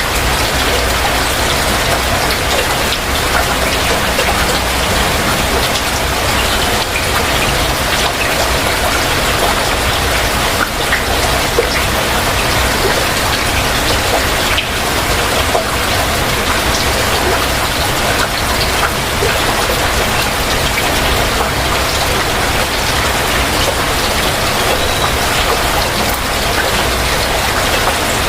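Heavy rain falling steadily, a dense even hiss dotted with small drop splashes.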